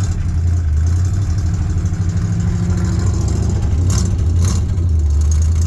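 1981 Ford Bronco's carbureted engine running just after a cold start, fed by the gas pedal to keep it from stalling because it has no choke. Two short clicks come about four and four and a half seconds in.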